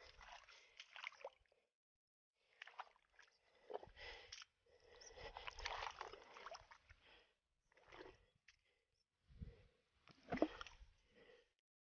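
Faint water sloshing and splashing in short irregular bursts, with silent gaps between them.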